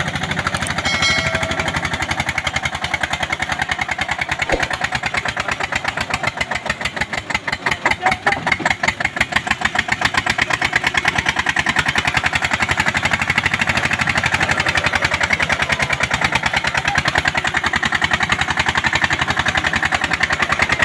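Eicher tractor's diesel engine running with an even, rapid beat of firing strokes; the beat swings unevenly in loudness for a few seconds in the middle, then settles steadier and a little louder.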